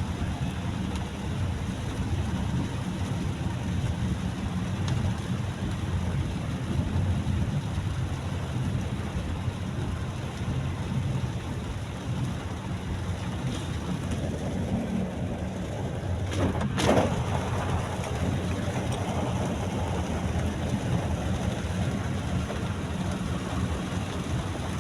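Rain falling steadily on a moving car, over a low, steady rumble of engine and road. About seventeen seconds in there is a single sharp knock.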